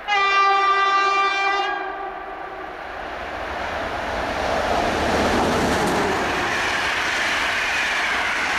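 An EP09 electric locomotive's horn sounds one steady blast of about a second and a half. Then the locomotive and its passenger coaches pass close by, the rush and rumble of wheels on rail building from about three seconds in and staying loud.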